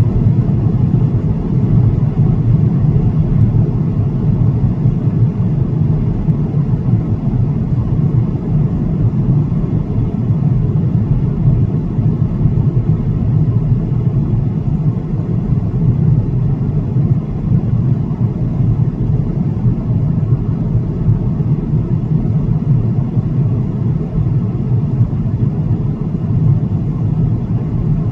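Steady low rumble of cabin noise inside an Airbus A330-900 airliner, from its Rolls-Royce Trent 7000 turbofan engines and the air rushing past the fuselage.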